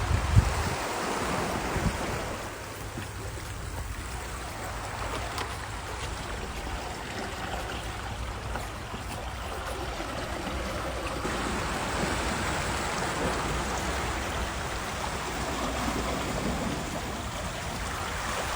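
Steady rushing water noise, like a stream or surf, with no distinct events.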